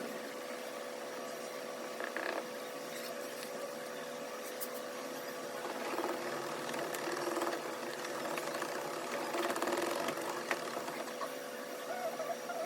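Hand rubbing polishing compound onto a car headlight, the rubbing growing louder around the middle, over a steady mechanical hum from the idling car.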